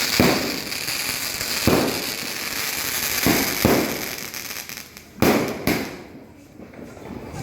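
Fireworks going off: six sharp bangs about a second or two apart, over a dense high crackle. The crackle dies away about halfway through, leaving the last two bangs close together.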